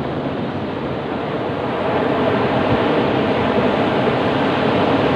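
Ocean waves breaking on a beach: a steady rush of surf that swells louder about two seconds in.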